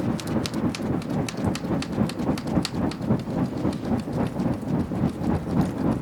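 Wood bonfire burning: a steady low rush of flames with frequent sharp crackles and pops.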